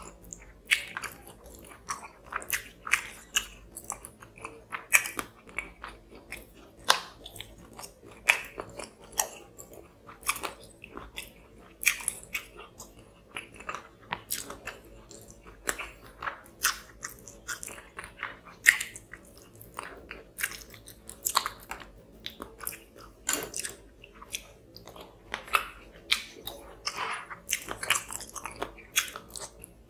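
Close-miked chewing of rice and fish curry eaten by hand, with frequent sharp, wet mouth clicks and smacks at an irregular pace.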